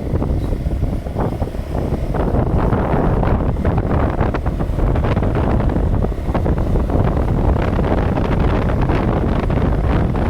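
Loud wind buffeting the microphone: a dense, gusting rumble with no clear tone.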